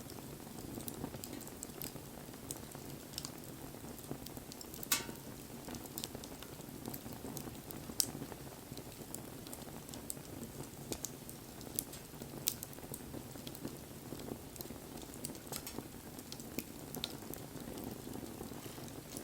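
Wood fire burning: a steady low rush of flame with frequent crackles and sharp pops, two louder pops about five and eight seconds in.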